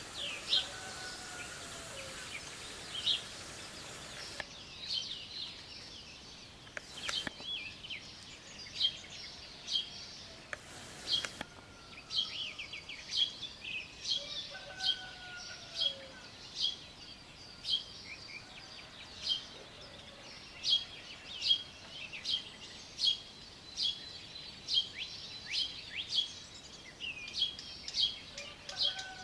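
Songbirds chirping in a dawn chorus: a steady run of short, high chirps repeated about every half second, with a few lower, falling calls from farther off. A brief hiss sounds in the first few seconds and again about eleven seconds in.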